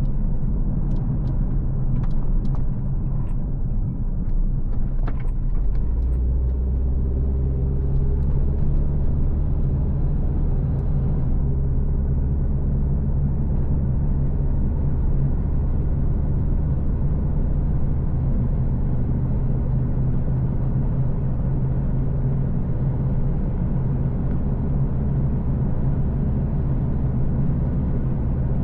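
A car driving along at a steady pace: a low, even rumble of engine and tyres on the road, with a few light clicks in the first few seconds.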